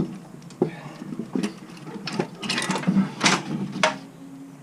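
Irregular metallic knocks and clanks, about seven of them with the busiest stretch after two seconds, as the Honda S2000's cylinder head is wrestled out of the engine bay with its intake and turbo manifold still attached.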